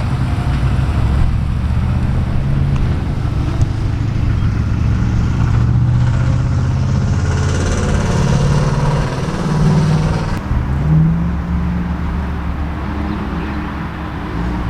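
A vehicle engine running close by, steady, with its pitch rising and falling a little in the middle, as from a van being eased forward.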